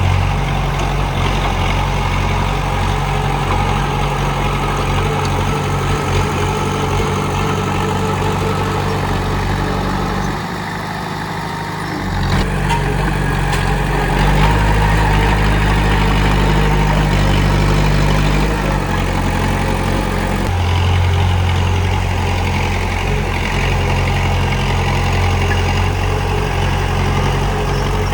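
Komatsu D31P bulldozer's diesel engine running steadily under work. The engine note drops briefly about ten seconds in, comes back stronger about two seconds later, and shifts again about twenty seconds in.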